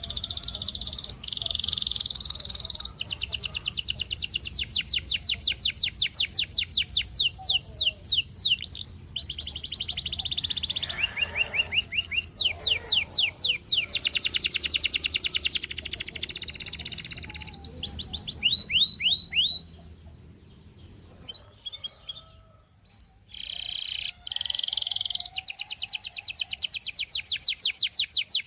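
Domestic canary, a Russian singing canary, singing a long song of rapid trills: runs of quickly repeated falling notes, each held for a few seconds before switching to the next. The song breaks off briefly about three-quarters of the way through, then resumes.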